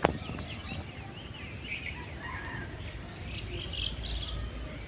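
Small birds chirping and twittering in short repeated calls over a faint, steady high insect buzz; a single sharp click right at the start.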